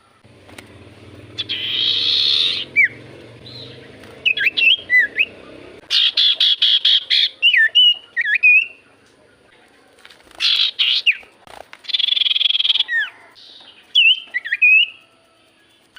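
Common iora (cipoh) calling: short, sharp whistled notes that swoop down and up, alternating with harsh rasping chatters, several times over. A low hum sits under the calls during the first six seconds or so.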